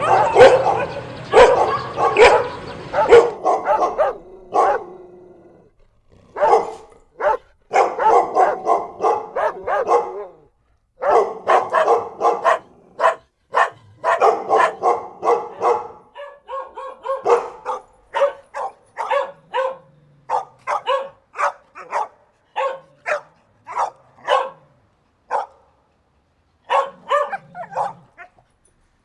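Several dogs barking in rapid, overlapping runs of sharp barks, denser at the start, with short pauses about five seconds in and again near the end.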